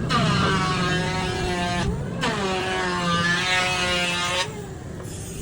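Heavy motorcycle engine being revved: its note sweeps up and falls back in two long swells, then drops to a quieter idle near the end.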